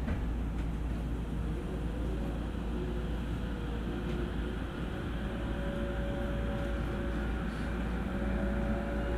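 Interior running sound of an E231 series electric train pulling away: a steady low rumble from the wheels and track, with the inverter and traction-motor whine rising slowly in pitch as it picks up speed. A short knock right at the start.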